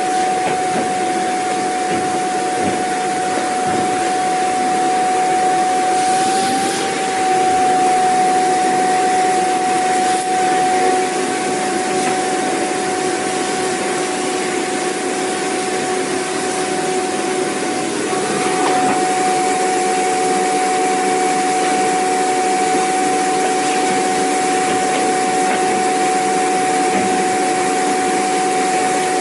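Vacuum cleaner motor running steadily: a constant whine over the rush of air. The tone wavers briefly about six seconds in and shifts slightly again around eighteen seconds.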